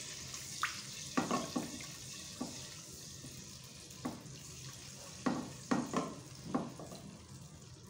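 Garlic-ginger paste and whole spices sizzling in hot oil in a pan, a steady hiss, while a spatula stirs and scrapes through it in about ten short strokes.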